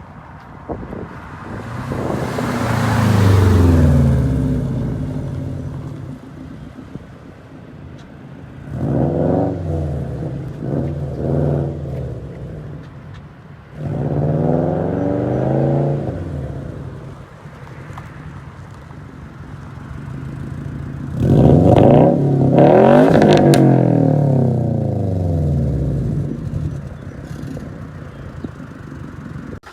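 A Subaru STi and a BMW E90 making several high-speed flybys: each car's engine revs up under hard acceleration, then drops in pitch as it passes. The loudest pass comes about two thirds of the way in.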